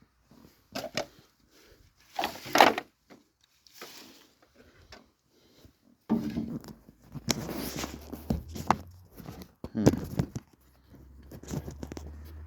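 Someone rummaging and handling objects: irregular knocks, scrapes and rustles, the loudest knocks about two and a half and ten seconds in. A low steady rumble comes in about six seconds in.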